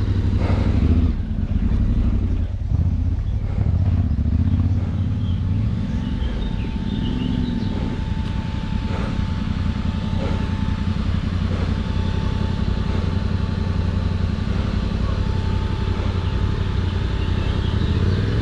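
Adventure motorcycle engine running off-road, revving up and down several times as the rider works the clutch on rough ground.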